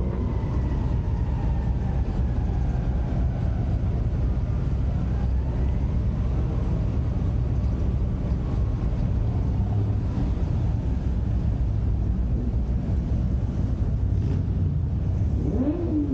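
Car engines running steadily with road noise as the cars drive slowly. A siren wails faintly in the distance, falling away over the first few seconds. An engine revs up and back down briefly near the end.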